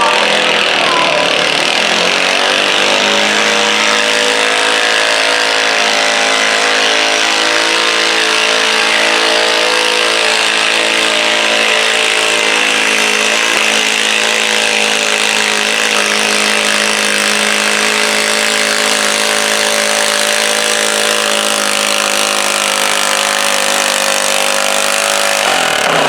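Modified pulling garden tractor engine running hard at wide-open throttle while pulling the sled: the revs climb over the first couple of seconds, then hold steady and high, and drop off abruptly near the end.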